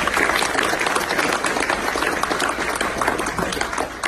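A roomful of people applauding, a dense patter of many hands clapping that tails off near the end.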